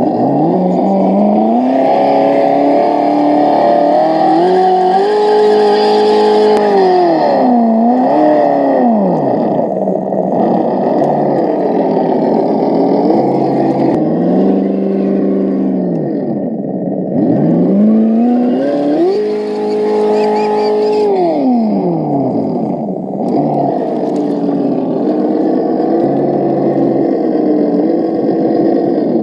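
Simulated truck engine sound from an ESS-One electronic sound module in an RC scale 4x4, played through its small onboard speaker. It revs up and down repeatedly with the throttle, with step changes in pitch like gear shifts and two longer stretches held at high revs. A fainter hiss, from the truck's motor and drivetrain working in the mud, runs underneath.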